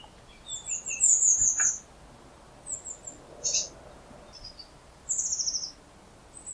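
Birds calling in quick separate phrases. There are short high chirps, and rapid trills that fall slightly in pitch: a long one about a second in and another near the end.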